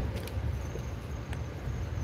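Steady low rumble of a moving Amtrak regional train heard from inside the passenger car, with a faint high steady whine and a couple of faint clicks.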